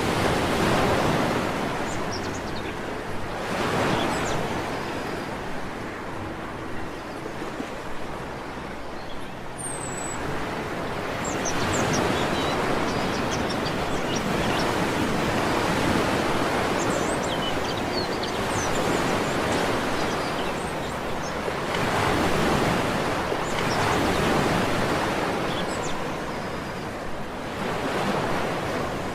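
Sea surf washing onto a beach, swelling and falling back every few seconds, with faint short bird chirps scattered over it.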